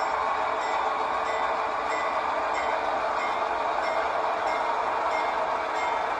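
Train rolling: steady running noise of rail cars moving along the track, with a light click repeating about every two-thirds of a second.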